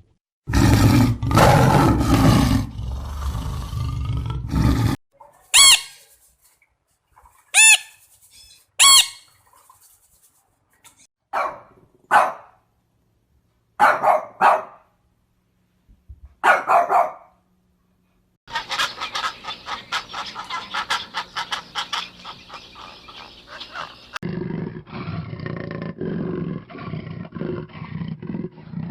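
A series of separate animal calls: short, sharp calls with silent gaps between them, then a longer call in the second half.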